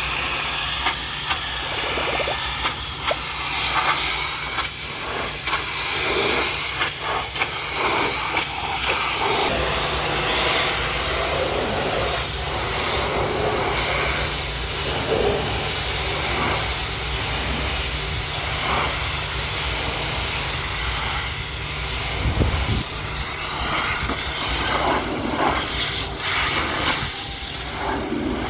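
High-pressure washer jet spraying water onto a mud-covered truck: a steady hiss of spray with a shifting spatter as the jet moves over the surfaces.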